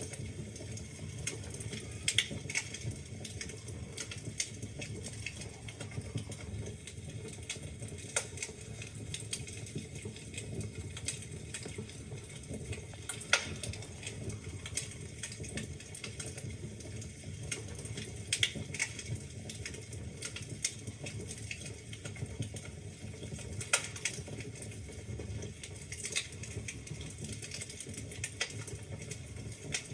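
Wood fire burning in a fireplace: a steady low rumble of the flames with irregular sharp crackles and pops from the logs, a few louder pops standing out.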